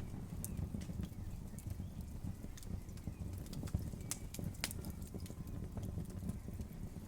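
Campfire burning: a low steady rumble with irregular sharp crackles and pops from the burning wood.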